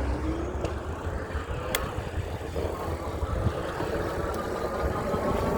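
Electric bike hub motor whining under throttle, its pitch climbing as the bike speeds up, over a steady low rumble of wind and road noise. One sharp click about two seconds in.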